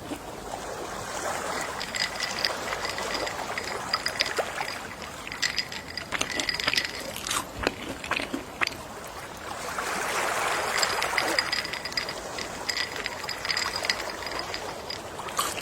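Gentle sea waves washing ashore, swelling twice, with scattered light clicks over the wash.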